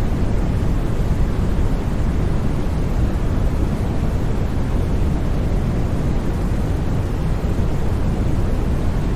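Steady, unchanging sleep noise sold as white noise. It is deep in tone, with most of its energy in the low rumble and a softer hiss above.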